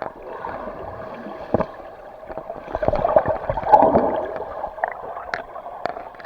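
Water sloshing and splashing as people move and swim in it, with a swell of splashing about three seconds in and scattered sharp slaps.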